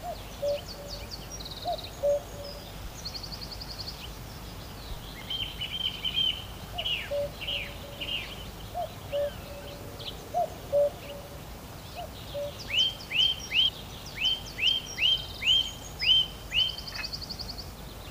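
Birdsong from several birds chirping and trilling, with runs of quick downward-sweeping chirps that come thickest in the second half, over a faint steady hiss.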